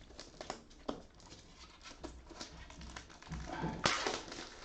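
Handling noise: scattered light clicks and taps, with a short rustle about four seconds in.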